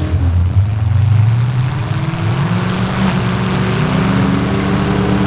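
Truck engine running hard, its pitch rising about two and a half seconds in and then holding at the higher speed.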